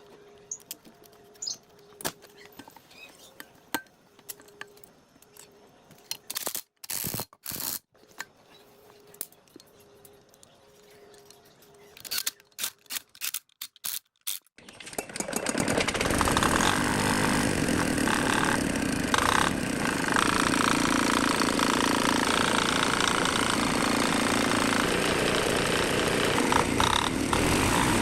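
Small engine of an old generator starting after a few short bursts about halfway through, then running steadily and loudly.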